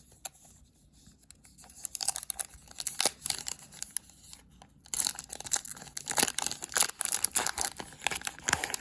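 A foil trading-card pack being torn open and crinkled: quiet at first, then bursts of crackly tearing and rustling from about two seconds in, with a short pause before more crinkling near the middle.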